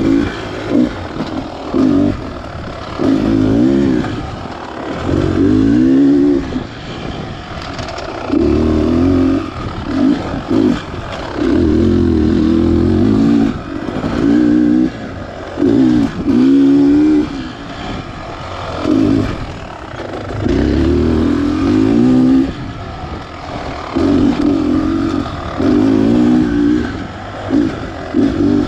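Beta Xtrainer 300 two-stroke single-cylinder dirt bike engine, revved in repeated short bursts of throttle with lulls between, its pitch rising and falling over and over.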